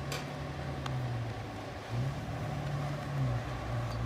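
Toyota 4Runner engine idling through a freshly fitted catless exhaust with a Dynomax Super Turbo muffler. There is a short, light rev about two seconds in that settles back to idle.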